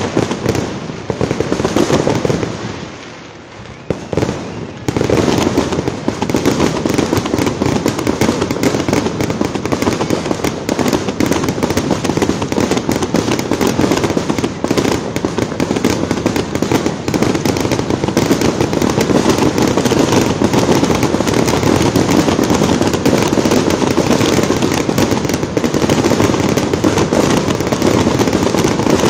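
Aerial fireworks display: a rapid, continuous barrage of bangs and crackling from bursting shells, with a short lull a few seconds in before it turns dense again.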